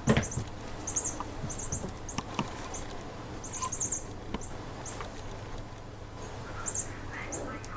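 A small bird's quick, very high-pitched chirps, coming in short clusters every second or so, with a few light taps and knocks in between.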